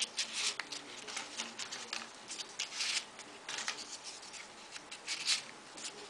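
Folded paper origami pieces rustling and scraping as they are pushed onto the model, in short irregular bursts with small clicks.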